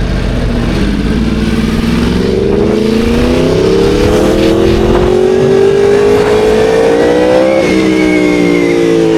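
Motorcycle engine accelerating hard: its pitch climbs steadily for several seconds, then drops sharply at an upshift near the end and pulls on in the next gear.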